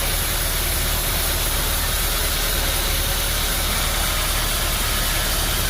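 Sawmill machinery running steadily, a constant low hum with an even hiss over it.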